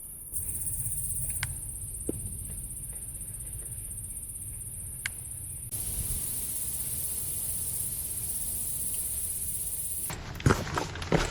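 Insects chirring in a steady high-pitched drone, typical of late-summer crickets or cicadas, with its loudness changing abruptly twice and then cutting off near the end. A few sharp knocks of footsteps on the trail follow.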